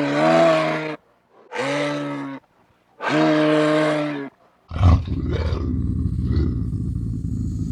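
Three short, low, steady-pitched animal calls about a second apart, then a lion roaring with a rough, low rumble that starts suddenly about two-thirds of the way in and carries on.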